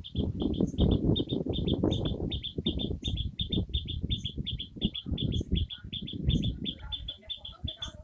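Outdoor nature ambience: a high, short bird chirp repeats steadily, about four times a second. Under it runs a louder, irregular low rumble that eases off near the end.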